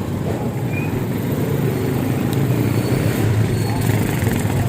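Steady low rumble of road noise and wind on the microphone while riding an electric bike.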